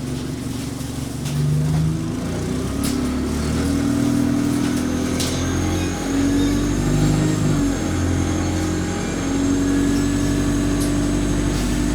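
Alexander Dennis Enviro 200 single-deck bus's diesel engine pulling under load. The engine note climbs and drops back in steps, about four times, as the automatic gearbox changes up. A faint high whine runs underneath.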